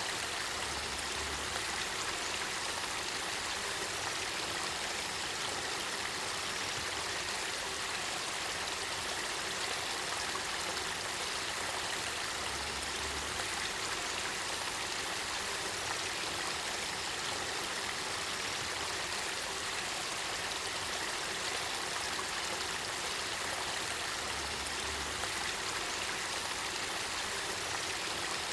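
Spring-fed river water flowing steadily over a shallow bed, an even, unbroken rush of running water.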